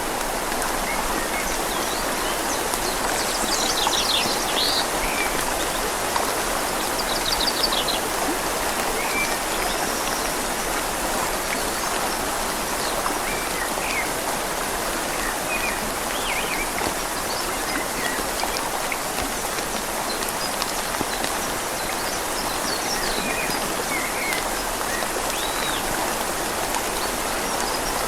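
Steady rain falling on leaves over a flowing river, an even hiss with no let-up. A bird chirps a few times in the first several seconds, with fainter calls later on.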